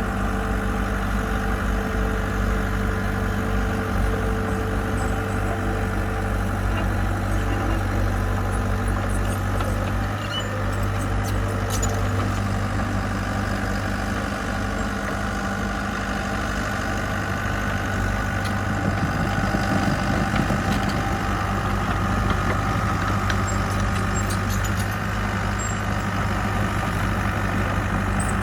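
Diesel engine of heavy construction equipment running steadily at a low, even pitch.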